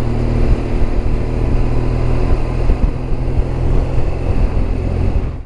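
Motorcycle riding at a steady speed: the engine running evenly under a constant rush of wind and road noise.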